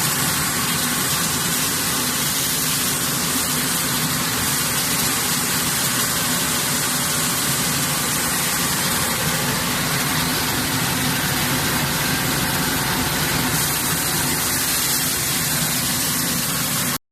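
Rice milling machine with suction elevator running steadily: a dense, even mechanical rush with a low steady hum underneath, cutting off abruptly at the end.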